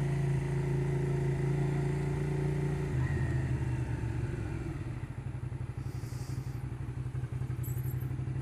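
Motorcycle engine running on the road with a steady note; about three seconds in, the note drops and becomes a quieter, pulsing beat.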